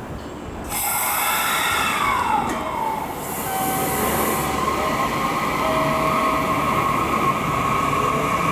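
JR 315 series electric train at the platform, its traction inverter and motors whining over rail noise. The whine falls in pitch in the first few seconds, then holds steady, and a new tone starts rising near the end.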